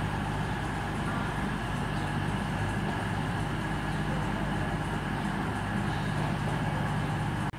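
Steady low hum of trains at a station platform.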